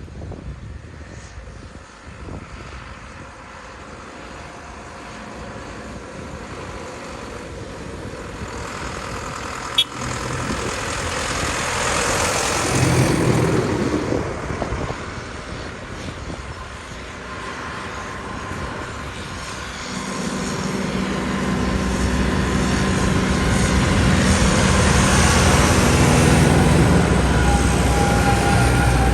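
Tractor engines driving past one after another: one swells and passes about twelve seconds in, then another comes in with a steady low drone and grows louder to the end. There is a single sharp click about ten seconds in.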